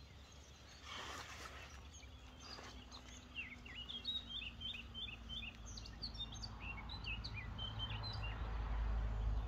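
Small birds singing in a run of short, high chirps through the middle. A couple of brief rustles come near the start as a mesh weigh sling is lifted, and a low rumble swells toward the end.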